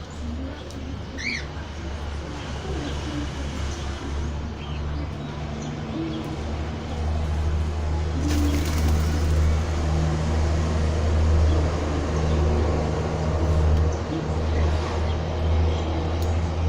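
Pigeons cooing, with a brief high bird chirp a little after the start, over a steady low rumble.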